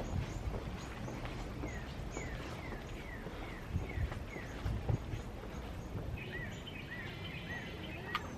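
Birds singing: a series of short downward-slurred whistled notes, about three a second, then from about six seconds in a different repeated arching call. A steady background hiss of outdoor noise and occasional soft low thumps run underneath.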